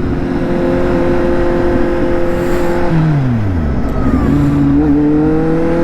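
Motorcycle engine running at steady revs while riding. About three seconds in the revs drop away sharply, then pick up again and climb slowly, under a haze of wind and road noise.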